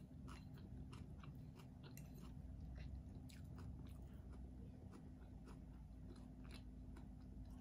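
Faint chewing of crisp shredded green mango close to the mouth: many small, irregular crunches and mouth clicks.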